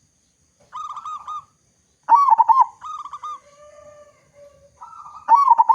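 Zebra dove (local perkutut) cooing: phrases of quick, rippling coo notes repeated about a second apart, with a few quieter, lower coos in the middle.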